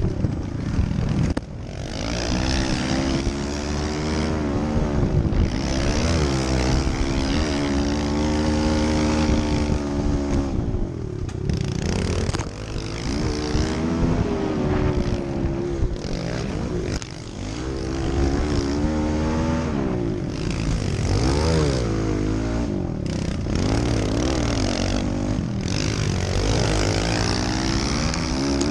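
Kawasaki KLX110 pit bikes' small single-cylinder four-stroke engines being ridden hard, the engine note rising and falling over and over as the rider revs, shifts and backs off, with a few brief dips in level and a steady hiss of wind.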